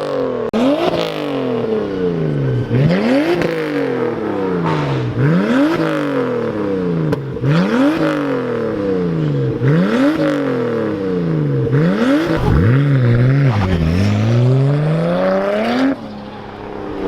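Car engine revved over and over, about once every two seconds, each rev climbing quickly and falling back to idle. The sound drops away suddenly about a second before the end.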